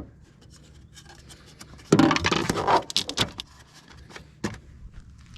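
Plastic fluid bottles being handled and knocked into place, with a loud clatter about two seconds in and a few sharp clicks after it.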